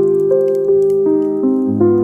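Gentle piano music, a new note or chord sounding about every half second, with faint crackling from a fireplace fire underneath.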